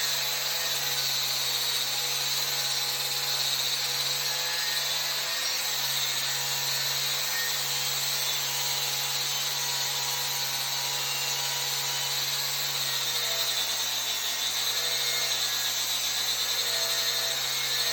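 Angle grinder running steadily while grinding the bevel on a pipe end, a constant motor hum under a high grinding hiss, the motor note dipping slightly about two-thirds of the way through.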